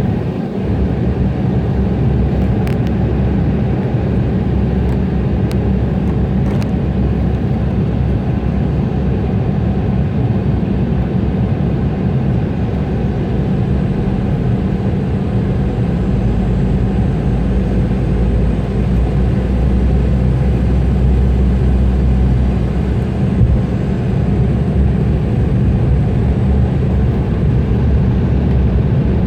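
Steady cabin noise of an Embraer E175 in flight: its turbofan engines and the airflow past the fuselage, heard from inside the passenger cabin. A faint steady whine sits over the noise, there are a few light clicks about three to six seconds in, and the low rumble swells somewhat in the middle.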